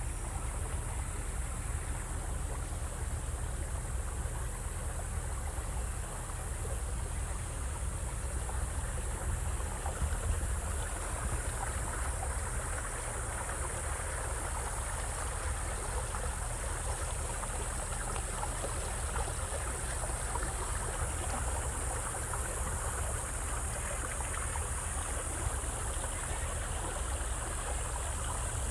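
A boat's motor running steadily as it moves up a river, with water rushing along the hull and a steady high hiss over it.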